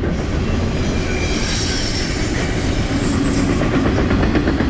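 Double-stack intermodal container cars rolling past on steel rails: a steady rumble and clatter of wheels on the track. A brief high squeal of wheels comes about a second and a half in.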